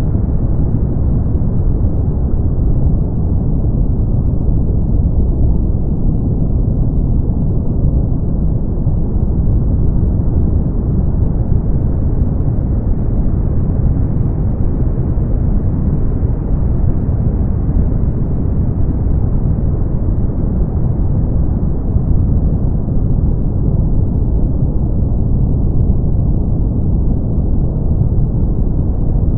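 Steady brown noise: a deep, even rumble with most of its energy at the bottom and almost nothing above a couple of kilohertz, with no tones, clicks or pauses.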